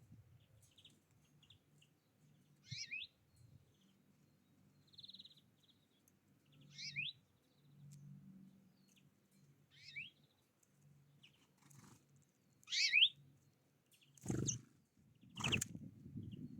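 A wild bird singing a short, quick phrase, repeated every three to four seconds. Two sharp knocks come near the end.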